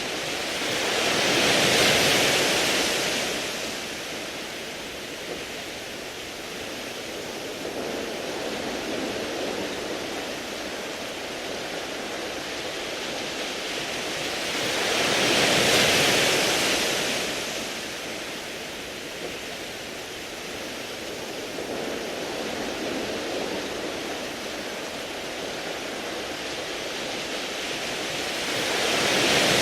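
Sea waves breaking and washing over a beach of round, smooth pebbles. Each wave swells up and falls away about every 14 seconds: about 2 seconds in, around the middle and again at the end, with a steady hiss of surf between.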